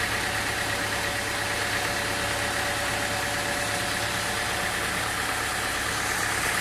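A machine engine running steadily at an even pitch, with no change in speed.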